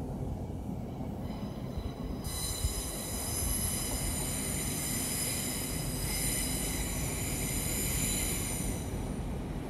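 Train moving on the rails with a low rumble; about two seconds in, a high, steady wheel squeal of several tones sets in and holds until near the end.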